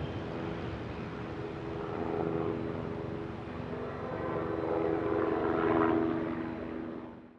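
Business-jet engines running, a steady drone with several held tones that swells twice, then fades and cuts off suddenly at the end.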